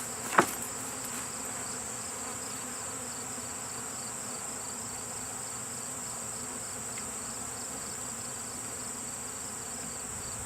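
Honeybee swarm buzzing steadily around the hive box, over a steady high-pitched whine. A single sharp knock about half a second in.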